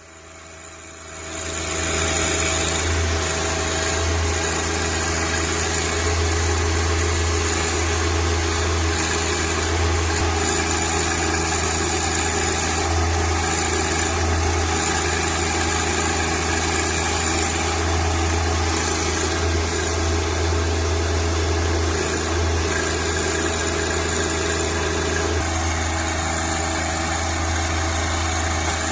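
John Deere compact tractor engine running steadily while the backhoe is worked. It rises over the first two seconds and then holds a constant hum.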